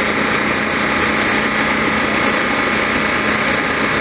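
An engine running steadily, with no change in speed, under a constant hiss.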